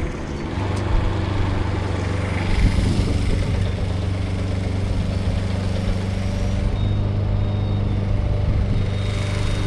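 An engine running steadily at an even speed, a low, constant hum.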